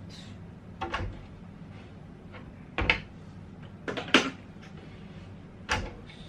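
Four separate knocks and clatters of household objects being handled, the third a quick double knock, over a low steady room hum.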